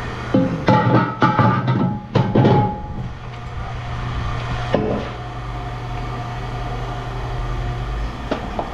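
A large metal wheel clanking and ringing as it is handled: a quick run of knocks in the first three seconds, each leaving a ringing tone, and one more knock about five seconds in. A steady low hum runs underneath.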